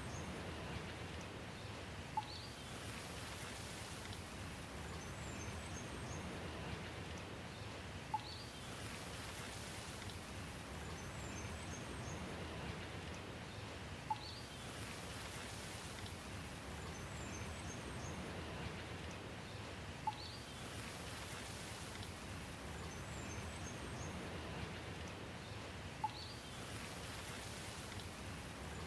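Steady, soft rain hiss. About every six seconds the same short pattern repeats: a few faint high chirps, a single sharp click like a drip, then a brief rising chirp.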